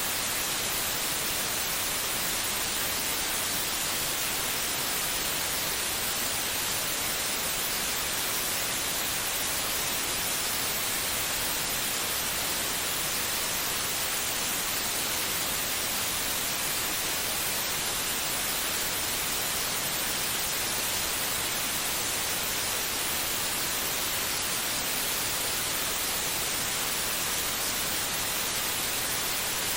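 Steady white noise for soothing a baby to sleep: an even, unbroken hiss, strongest in the treble.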